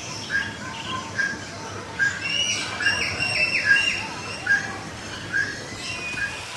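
Several birds chirping and calling: short whistled notes repeated about every half second, with a few quick falling whistles in the middle.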